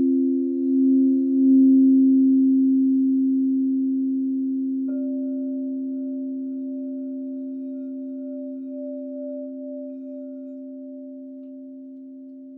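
Singing bowls ringing: two low tones sustain and slowly fade, wavering and swelling near the start. About five seconds in, a higher bowl is struck and rings on over them.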